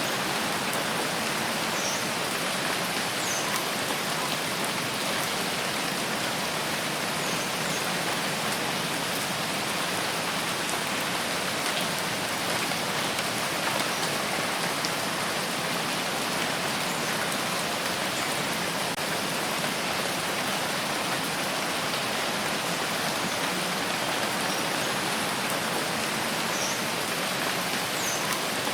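Steady rain falling, an even hiss with a few faint droplet ticks.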